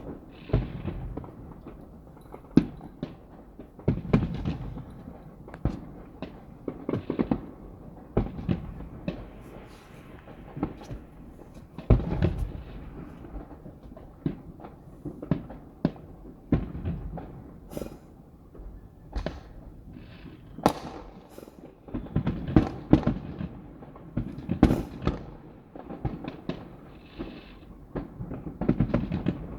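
Fireworks bursting overhead: a long, irregular string of booms and sharp cracks, a few seconds apart at most, several of them close together.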